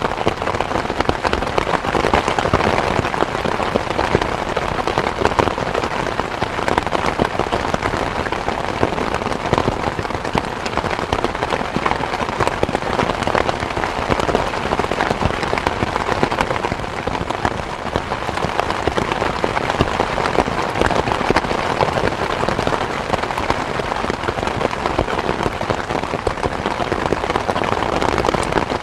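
Steady rain falling: a dense, even patter of many drops that holds constant throughout.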